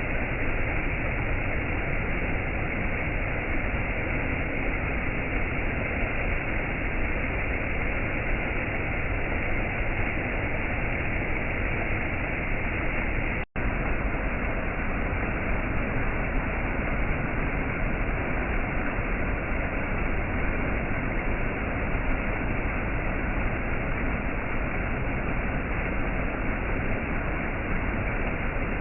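Waterfall: a steady, even rush of falling water, dropping out for an instant about halfway through.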